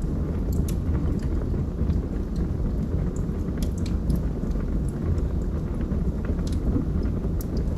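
Log fire burning with a steady low rumble of flame and scattered sharp crackles and pops from the burning wood.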